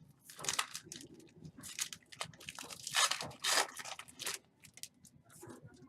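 Trading card pack wrapper being torn open and crinkled by hand, in a run of irregular crackling bursts, loudest about three seconds in.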